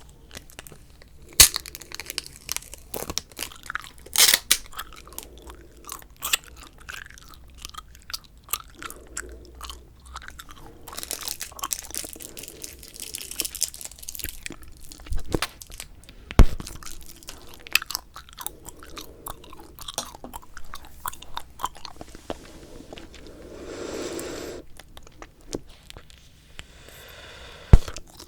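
Bubble gum chewed close to the microphone: wet, sticky smacking and clicking mouth sounds, broken by a few much louder sharp snaps.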